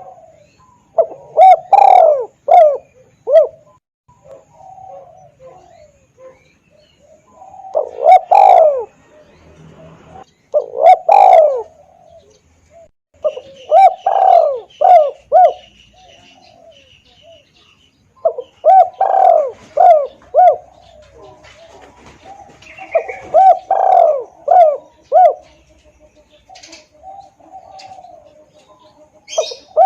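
Spotted dove (tekukur) cooing as a hunting lure call, loud and clear. It repeats phrases of several quick coos every few seconds.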